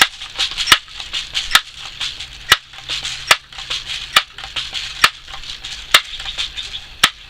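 Crosman 760 Pumpmaster multi-pump air rifle being pumped: a steady series of about nine strokes a little under a second apart, each ending in a sharp click, with a hiss between them.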